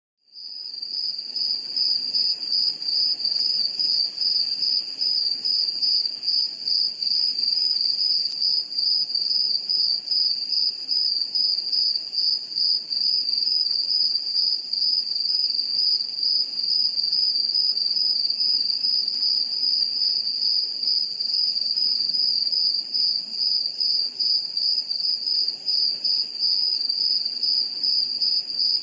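Crickets singing: a continuous high-pitched trill that flickers rapidly but never breaks, starting about half a second in.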